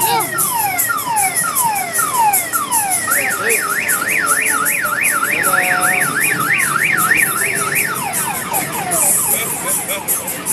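Electronic siren tones in the manner of a car alarm, cycling through patterns: falling whoops about twice a second, then a fast up-and-down warble from about three seconds in, then falling whoops again near the end, over a steady ticking beat.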